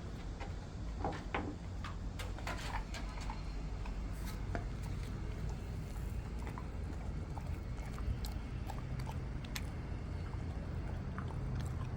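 A retriever chewing a sweet potato treat: irregular soft crunches and wet clicks, over a steady low hum.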